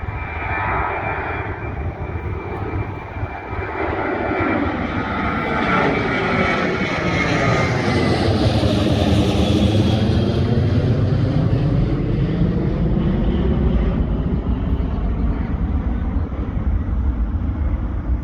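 Jet airliner climbing out after takeoff and passing low overhead: a roar with a high engine whine that grows, peaks about halfway through as the plane goes over, and drops lower in pitch as it moves away.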